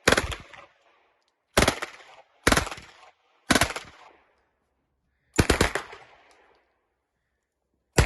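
Automatic firearm firing five short bursts a second or so apart, each dying away quickly; the fifth burst is a longer rapid string of shots.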